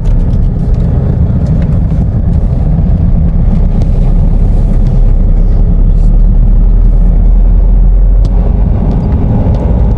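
A car driving along the road: a steady, loud low rumble of engine and road noise.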